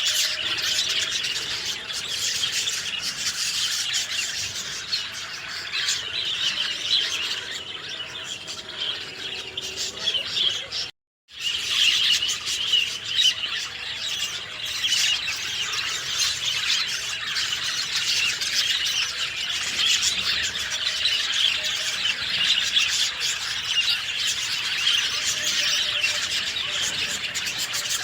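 Dense chorus of many small songbirds chirping and twittering continuously. The sound cuts out completely for a split second about eleven seconds in, then resumes.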